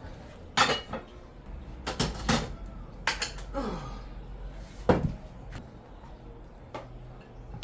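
Spoon clanking against pots and plates as food is dished out: a handful of sharp knocks and scrapes, the loudest about five seconds in.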